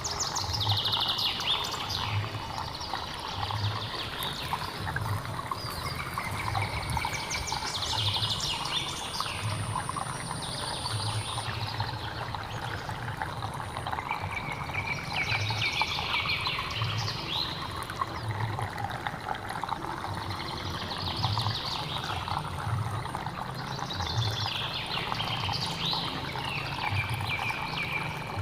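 Running water of a hill stream flowing steadily, with a songbird repeating a short warbled phrase every three to four seconds, each phrase ending on a held note. A thin, high, steady whine, like an insect, runs through the first third and then stops.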